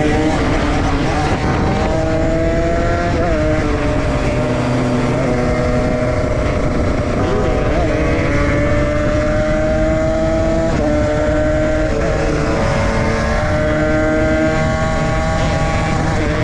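Dirt bike engines of a KTM EXC and a Derbi running under way at moderate, steady revs, the pitch creeping up slowly. Short throttle blips come about three and eight seconds in, and the revs drop near eleven seconds.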